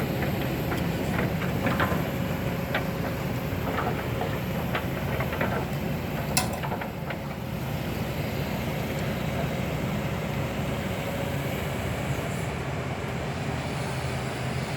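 Heavy diesel construction machinery running steadily with a low engine drone, with a few light clicks and knocks and one sharp click about six seconds in.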